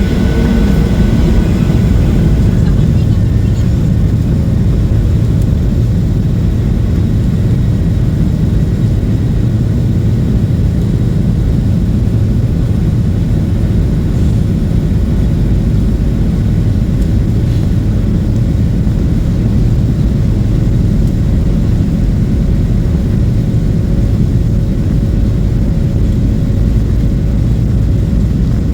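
Steady low rumble inside a Boeing 737-800 cabin: the CFM56 jet engines and airflow during departure. A faint high whine fades out in the first second or two.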